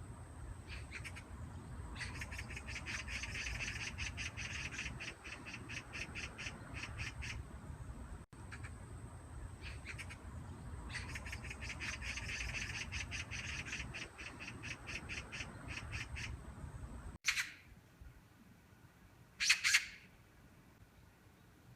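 Magpie chattering: two long rattling runs of harsh notes, about ten a second. After a cut, single harsh calls come about two seconds apart.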